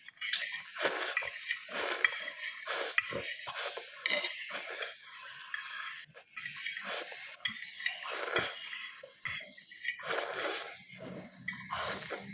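Metal cutlery clinking and scraping against a dish in a rapid, irregular series while instant noodles are eaten.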